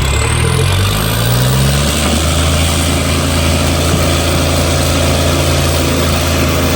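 Tractor diesel engine revving up over the first couple of seconds, then running steadily at high revs.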